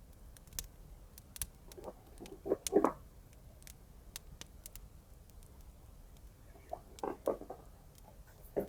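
Soft rustling and tapping of paper and tape being handled at a desk, in two short bursts, over scattered faint crackles of a fireplace.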